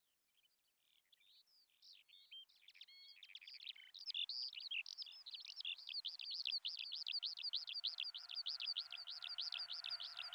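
Bird-like chirping fading in out of near silence: scattered chirps at first, then from about four seconds in a fast, regular run of repeated high chirps, about five a second.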